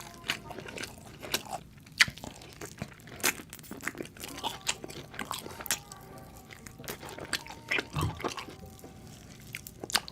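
Close-miked mukbang eating: sharp crunchy bites and chewing, coming irregularly about every second, with a heavier bite about eight seconds in.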